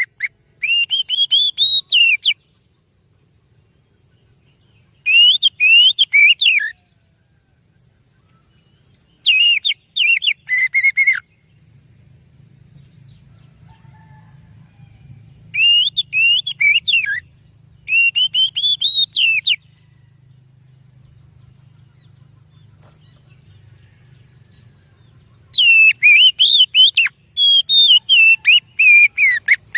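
Oriental magpie-robin (kacer) singing in loud phrases of rapid, clear whistled notes, often climbing in pitch, each phrase about one and a half seconds long, with pauses of a few seconds between them. This is the song used as a lure recording to set off caged magpie-robins.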